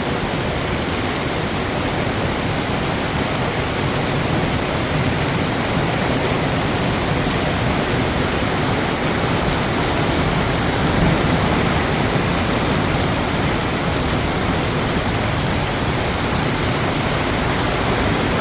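Heavy rain pouring down in a steady, dense hiss during a thunderstorm.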